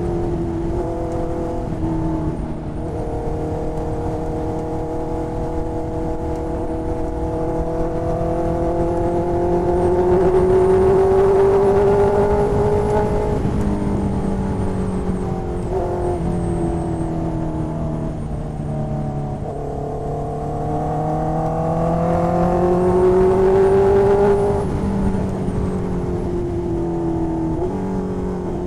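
2020 Honda CB650R's inline-four engine running through an aftermarket exhaust under way. Its pitch climbs slowly under steady throttle and steps down and up at several gear changes, loudest around 10–12 s and 22–24 s.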